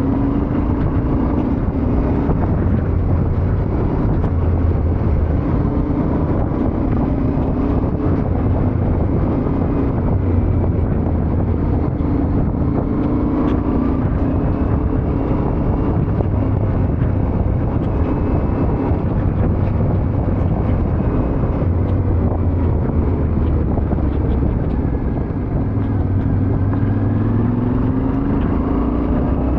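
Yamaha Ténéré 700 parallel-twin motorcycle engine running under way, its note drifting up and down with the throttle and rising near the end.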